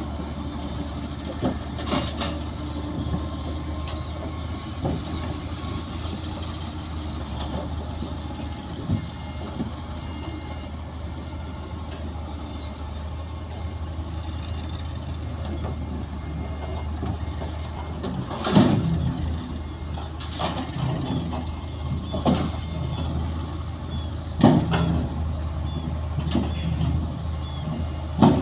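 Heavy diesel earthmoving machinery running with a steady low engine drone. Sharp metallic clanks and knocks come once early and then about every two seconds in the second half.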